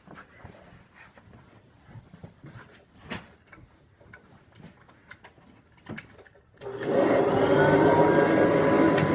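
Faint knocks and clicks of handling, then about two-thirds of the way in a Kirby Dual Sanitronic 80 upright vacuum cleaner is switched on: its motor whine rises quickly to a steady pitch over a loud, even rush of air.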